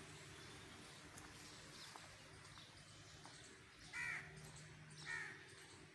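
A bird calling twice, two short calls about a second apart in the second half, over a faint steady low hum.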